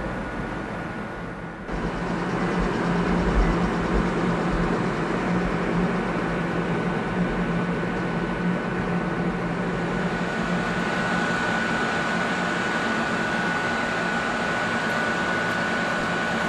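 Standing Ichibata Electric Railway electric train with its roof air-conditioners and auxiliary equipment running: a steady hum with a thin high whine that grows stronger in the second half.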